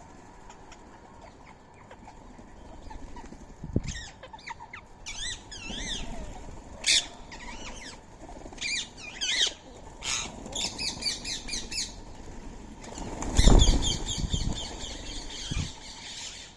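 Birds calling, with sharp squawks and runs of quick wavering chirps, mixed with wings flapping. The loudest flurry of wingbeats comes about 13 seconds in, with a shorter flap near 4 seconds.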